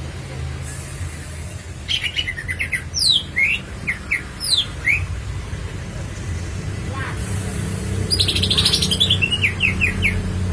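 Cucak ijo (green leafbird) singing in two bursts of quick whistled notes that sweep up and down in pitch; the second burst opens with a dense rapid trill. A steady low hum runs underneath.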